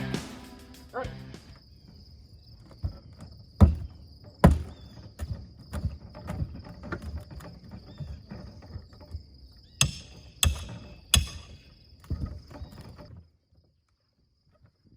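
A steady high insect trill with a series of sharp knocks and clatters over it, the loudest about four and a half seconds and about eleven seconds in; music fades out at the start, and all sound cuts off abruptly about 13 seconds in.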